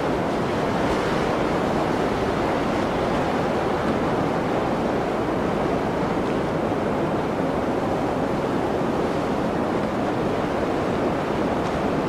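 Blizzard wind blowing steadily, an even rushing noise with no single gust standing out.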